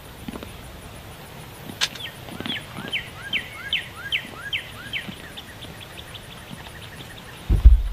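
A songbird singing a run of repeated slurred whistles, about two a second, each a falling note paired with a short rising one, then speeding into a quicker series of short notes that fades out. A sharp click comes just before the song, and a low thump near the end.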